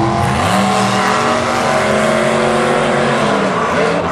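Monster truck engines, supercharged methanol-burning V8s, running at full throttle on a racing pass. The pitch climbs about half a second in, holds, then drops near the end as the trucks come off the throttle.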